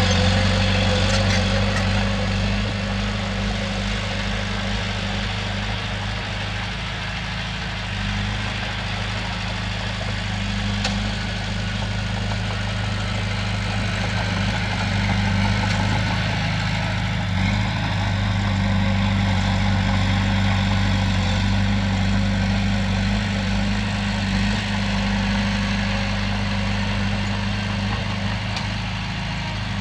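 Heavy diesel engine of an earthmoving machine running steadily with a deep, even drone, its pitch and load shifting slightly a few times.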